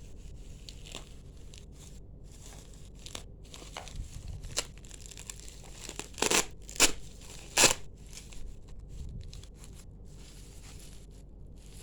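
Packaging being handled: rustling and crinkling, with three sharp, loud crackles or tears a little past the middle.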